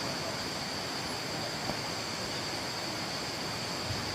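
Steady outdoor ambience: a continuous high insect drone over an even hiss, with a couple of faint ticks.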